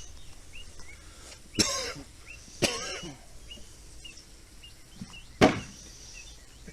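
Handling of wooden beehive frames and hive parts during a nuc transfer: three short knocks and scrapes, the last a sharp knock about five and a half seconds in. Small birds chirp faintly in the background.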